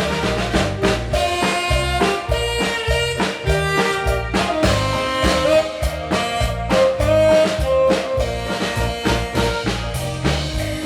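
Saxophone playing a melody in long held notes over a backing of drum kit and bass with a steady beat.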